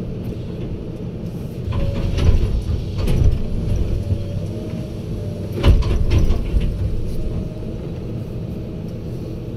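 Heavy diesel machinery running steadily, with several loud metallic knocks and clanks about two, three and six seconds in.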